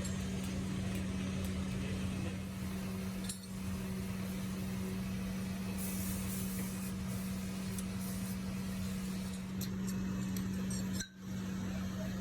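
A workshop machine's motor runs with a steady low hum, while small metal parts clink lightly now and then. The sound drops out briefly twice, once about three seconds in and once near the end.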